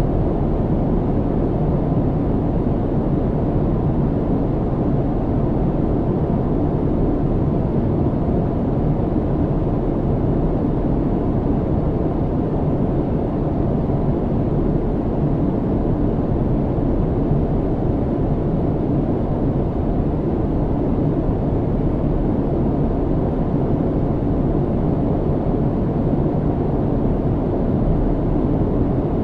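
Airliner cabin noise in flight: a steady, even low rumble of engines and airflow, with little high hiss, unchanging throughout.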